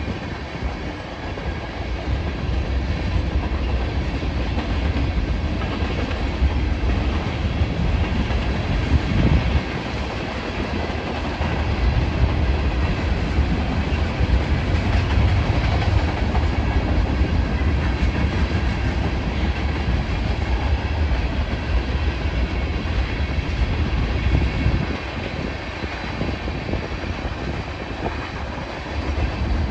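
Loaded ethanol tank cars of a freight train rolling past at a grade crossing: a steady rumble of steel wheels on rail with occasional short clacks.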